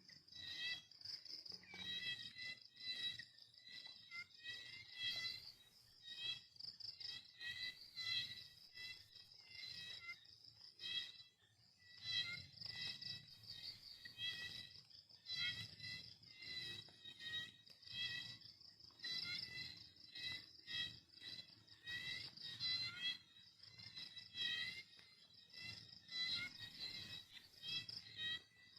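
Crickets chirping in quick, uneven runs of short high chirps, with scattered light clicks.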